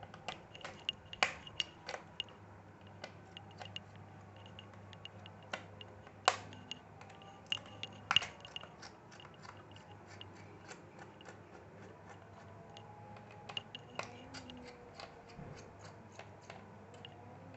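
Irregular small clicks and taps of a screwdriver and metal and plastic laptop parts being handled as screws are undone, with a few sharper knocks, over a faint steady low hum.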